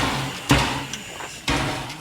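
Steam train moving slowly: heavy rhythmic beats in pairs, each pair about half a second apart and the pairs repeating every second and a half.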